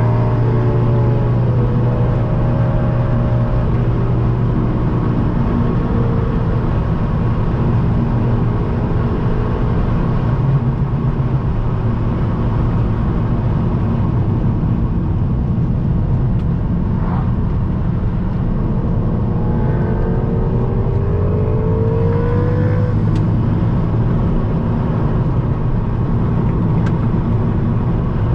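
Turbocharged 2.0-litre four-cylinder engine of a tuned Mk7 VW GTI with a catless downpipe, pulling hard at speed under a steady haze of road and wind noise. Its pitch climbs as it accelerates, most clearly about twenty seconds in.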